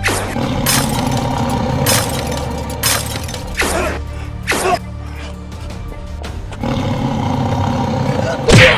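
Action background music with a string of sudden hit and swish sound effects at uneven intervals, as in an edited fight scene. The loudest impact comes near the end.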